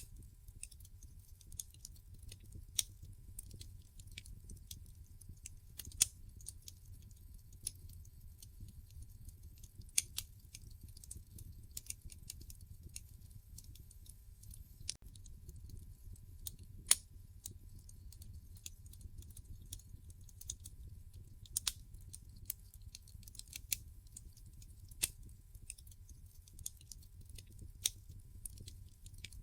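Wood fire crackling in a fireplace: irregular sharp pops and snaps of burning logs every second or so, over a steady low rumble.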